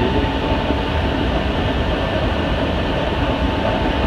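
Interior running noise of a Hankyu 7000-series electric train at speed, heard from inside the passenger car: a steady low rumble of wheels on rail, with a constant high tone running through it.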